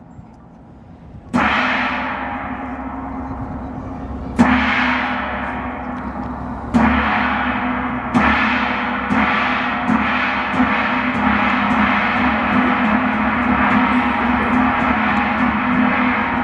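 Large Chinese-style gong (dora) being struck: three slow strikes a few seconds apart, then the strikes come faster, about two a second, the ringing piling up into a continuous shimmer.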